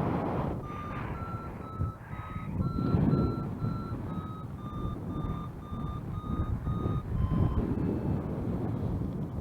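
Paragliding variometer beeping: short tones about twice a second, pitch sinking slightly and stopping about seven seconds in, the sign of weak lift fading. Wind rushes over the microphone throughout.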